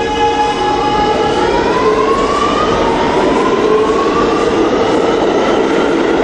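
Subway train's electric traction motors whining as it accelerates, the pitch rising in two steps with a drop between, over a steady rumble of wheels on rail.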